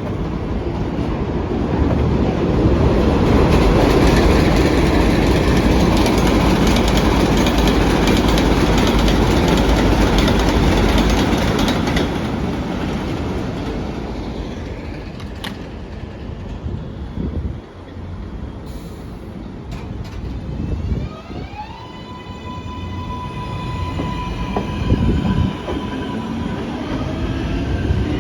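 An R188 subway train runs past on the elevated track with a loud rumble and wheel clatter, then fades. About twenty seconds in, a train's electric motors give a rising whine as it pulls away, settling into a steady tone for a few seconds.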